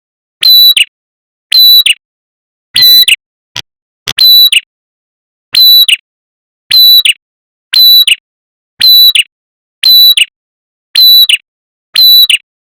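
Lure recording of a prenjak kepala merah, a small Indonesian warbler, giving a short sharp high call over and over, about one a second, each a brief high note that bends at its end, with silence between.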